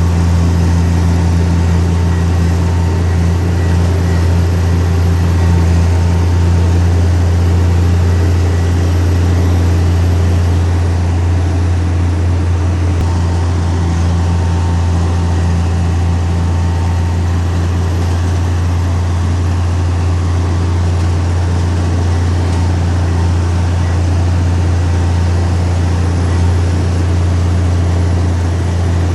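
Heavy diesel engine of earthmoving machinery running at a constant speed, a deep, even drone that does not change.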